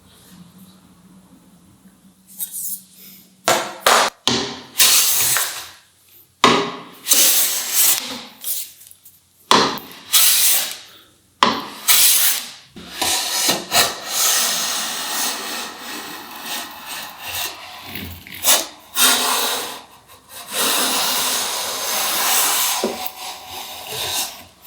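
Hand tool working wood in repeated noisy strokes, starting about three seconds in and running on, denser and longer, through the second half.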